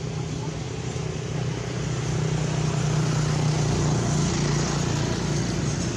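A motor vehicle engine running, a steady low hum that grows louder about a second and a half in and eases slightly near the end, as if passing by.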